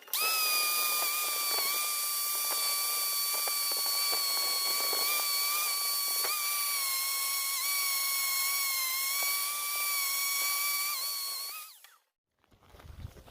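High-speed power tool motor whining steadily over a loud hiss, with scattered ticks. The pitch dips slightly now and then as it takes load. It stops abruptly near the end.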